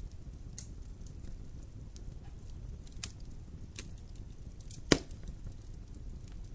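Wood fire burning in a fireplace: a steady low rumble with scattered crackles, and one loud pop near the end.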